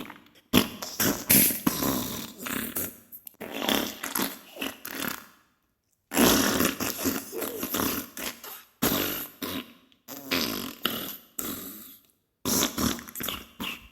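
Diarrhea sound effect: a run of wet, sputtering fart noises in irregular bursts, with brief pauses about six seconds in and near the end.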